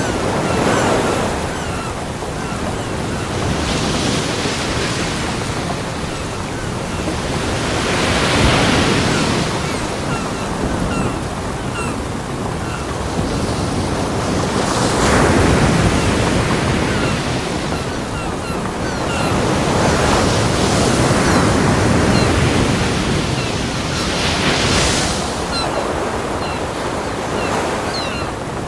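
Ocean surf breaking on a beach: a continuous wash of waves, with a swell of breaking water every few seconds that rises and falls away.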